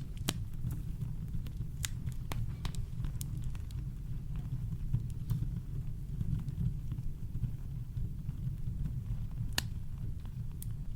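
Campfire crackling: scattered sharp pops and snaps from the burning wood over a steady low rumble of brown noise.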